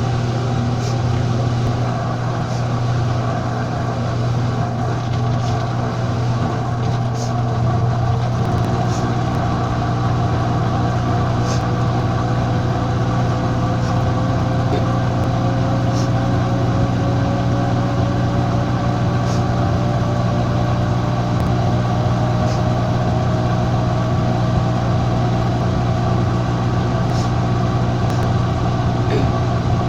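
Washing machine on its spin cycle: a steady low hum with a whine that rises slowly in pitch as the drum speeds up, and occasional faint ticks.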